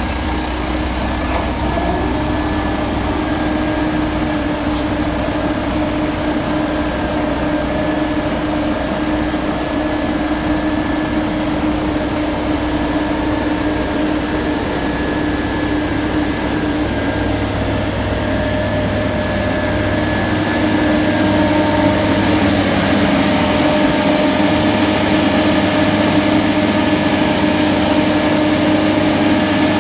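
Heavy road-paving machinery and trucks running steadily, the engines droning with a low rumble and a few held tones, growing a little louder about twenty seconds in.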